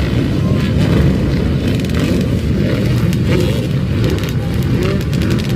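Motocross dirt bike and quad engines running loudly and continuously.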